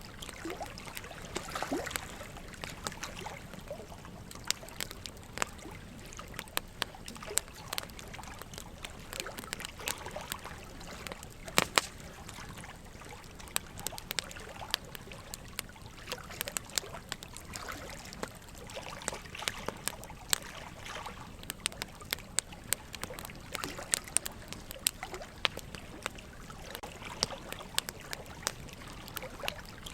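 Wood logs burning in a fireplace, crackling with many irregular sharp pops, one louder pop about twelve seconds in, over a steady trickle of running water.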